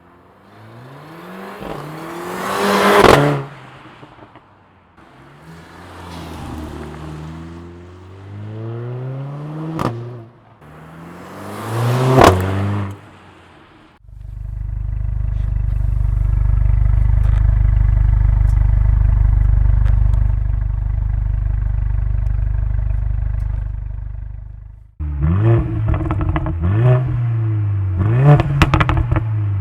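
Mercedes-AMG A45's turbocharged 2.0-litre four-cylinder engine revved several times, each rev rising and falling with a sharp crack at its peak. Then comes about ten seconds of a steady, heavy low drone, and near the end quick short blips with a run of crackling pops.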